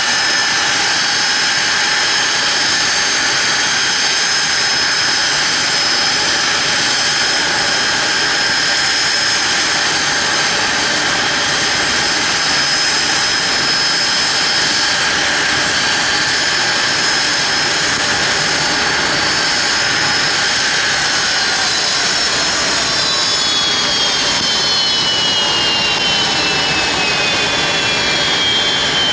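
Boeing 767's jet engines running at idle with a steady high whine. From about 21 s in, the whine tones start falling steadily in pitch: the engines are spooling down after shutdown at the parking spot.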